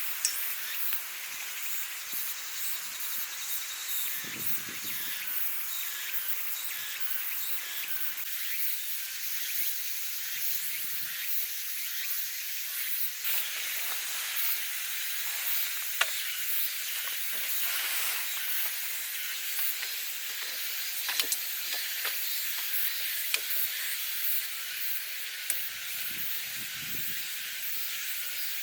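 A steady hiss with a few sharp clicks scattered through it.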